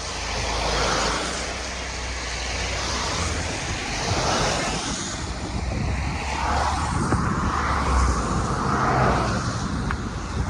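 A car driving along a road: steady engine and road noise that swells and eases a few times.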